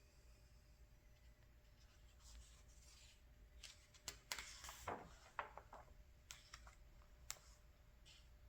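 A catalog page being handled and turned: a faint paper rustle, then a cluster of crackles and sharp snaps in the middle, and a couple of lone clicks near the end. Quiet overall.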